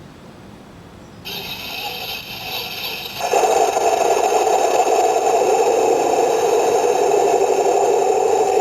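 Radio-controlled M26 tank model with metal tracks starting up. A high whine comes in about a second in, and after about two more seconds a much louder steady mechanical running sound with rattle takes over.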